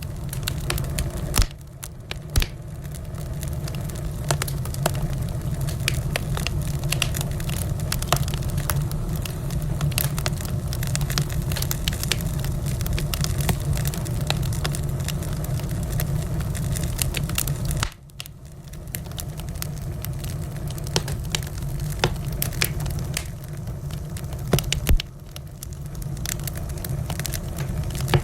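Wood fire in a fireplace crackling and popping over a steady low rumble of flame. The rumble dips briefly about three times.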